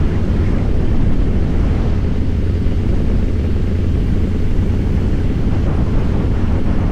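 Harley-Davidson Fat Boy's V-twin engine running steadily while the motorcycle cruises, its pitch holding level with no revving or gear changes.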